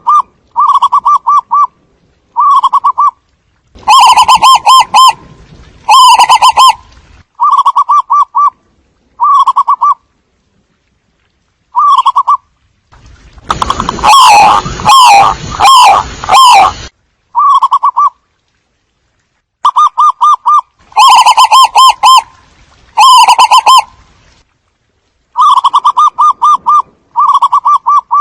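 Zebra doves calling: short bursts of rapid, fluttering coos, repeated every second or so, with a denser stretch in the middle where several calls overlap. The recording is very loud.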